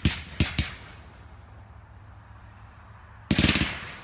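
Consumer fireworks going off: three sharp bangs in the first second, a lull, then a rapid rattling volley of cracks near the end.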